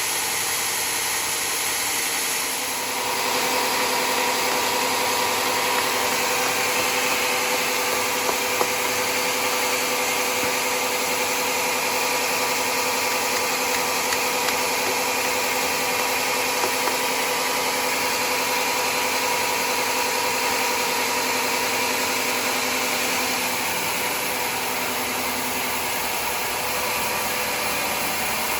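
Sawmill running steadily while sawing mahogany. About three seconds in, the noise grows a little louder and takes on a steady hum, which eases somewhat near the end.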